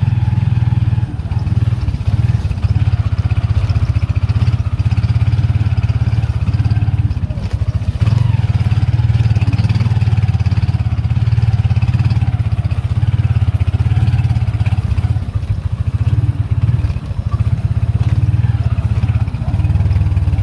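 Motorcycle engine of a sidecar tricycle running under way, heard up close from the sidecar: a steady low engine note with a few brief easings of the throttle.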